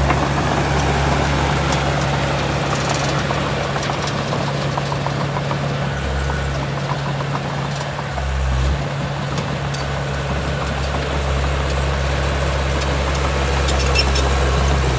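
Heavy diesel engine of earthmoving machinery running at a steady low speed, with a low, even hum.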